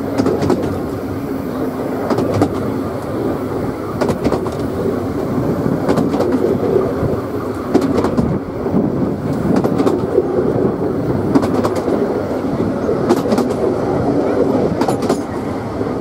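Narrow-gauge passenger carriage running along the line: a steady rumble of wheels on track, with sharp clicks every second or few as the wheels cross rail joints.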